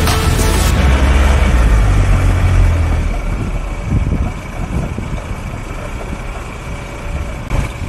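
Four-wheel-drive vehicle engine running with a heavy low rumble, which eases to a quieter, rougher sound about three seconds in.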